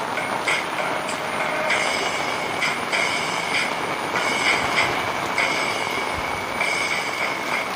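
Heavy rain falling steadily, a dense even hiss. A high-pitched chirping rises and fades over it in irregular pulses, about once or twice a second.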